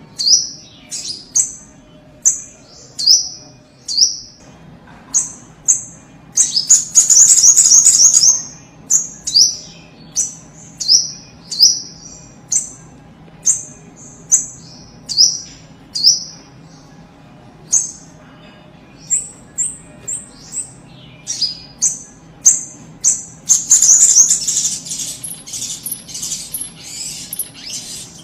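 A spiderhunter (sogok ontong) calling vigorously: a steady run of short, sharp, high call notes that each drop in pitch, about one a second, broken twice by longer bursts of rapid, loud chattering, the second near the end.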